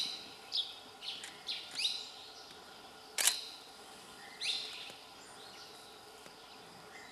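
Short high bird chirps in scattered groups over a steady forest background, with one sharp click about three seconds in.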